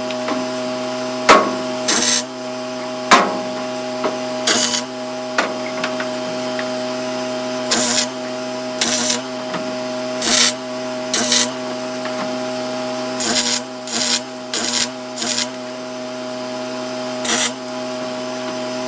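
A welder tacking 1/8-inch aluminum boat panels: about a dozen short bursts, each under a second, irregularly spaced, over a steady machine hum. A couple of sharp knocks come in the first few seconds.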